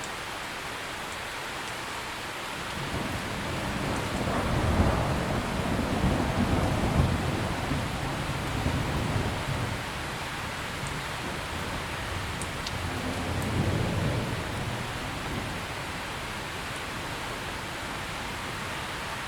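Steady rain falling, with a low rumble of distant thunder that builds about three seconds in, swells and fades out by about ten seconds. A second, shorter rumble comes around fourteen seconds.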